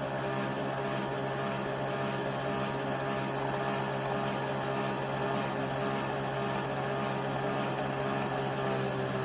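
Nespresso Vertuo Next coffee machine mid-brew, its motor spinning the capsule with a steady whirring hum.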